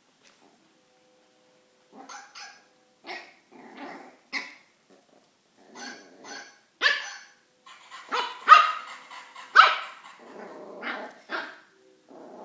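Young border collie/blue heeler mix puppy barking repeatedly in short, irregular barks, starting about two seconds in and loudest past the middle. These are the barks of a frightened puppy.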